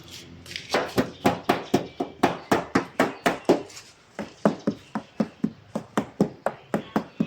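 Rapid, regular knocking, about four sharp strikes a second, with a short break a little past halfway through.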